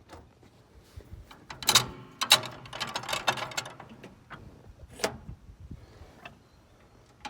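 Mechanical clanking and rattling, densest from about one and a half to three and a half seconds in, with a single knock about five seconds in.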